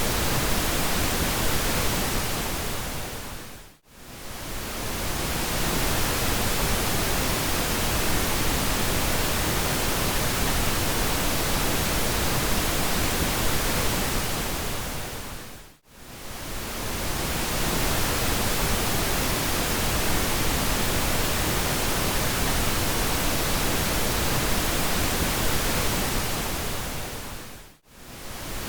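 Steady pink noise, a smooth even hiss. It briefly fades down to near silence and back up three times, about every twelve seconds.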